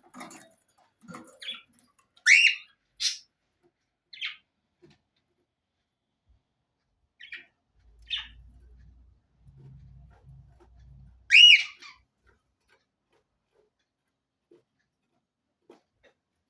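Pet parrot giving scattered short squawks and chirps, with two loud arched squawks, one about two seconds in and one about eleven seconds in, and long pauses between the calls.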